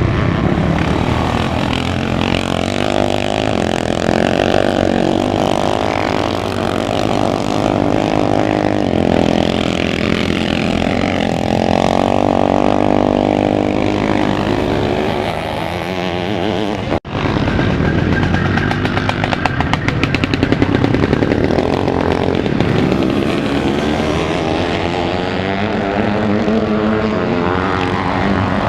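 Motocross motorcycle engines revving up and down as bikes race round the track. The sound cuts out abruptly for a moment about two-thirds of the way through.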